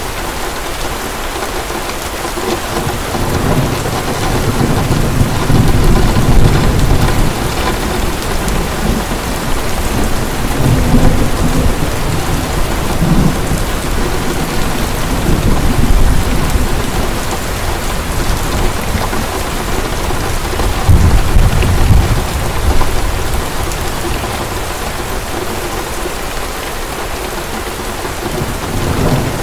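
Heavy rain falling steadily, with thunder rumbling repeatedly in low rolling swells, the strongest about two thirds of the way through.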